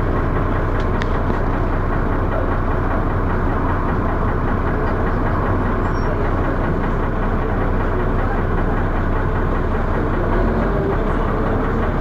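Dennis Arrow double-decker bus running with steady engine drone and body thrash; the bus has a loud knocking noise.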